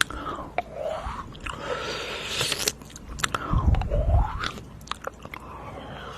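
Close-miked ASMR mouth sounds: wet clicks and smacks, with a few sweeping rising and falling glides.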